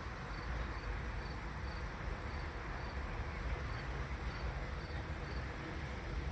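Faint insect chirping: short high-pitched chirps repeating about twice a second, over a steady low rumble of background noise.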